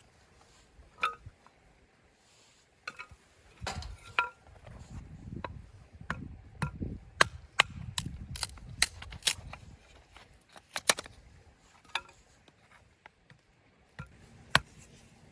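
Scattered sharp knocks and clinks of things being handled and set down, with low rustling handling noise in the middle.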